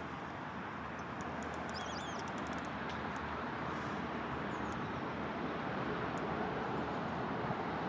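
Steady outdoor background hiss, with a brief bird chirp about two seconds in.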